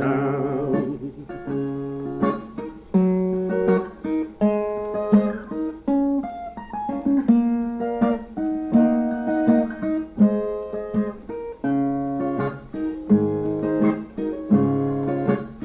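A male voice ends a held sung note, then a Brazilian viola plays an instrumental interlude alone: plucked single-note melodic runs over low bass notes.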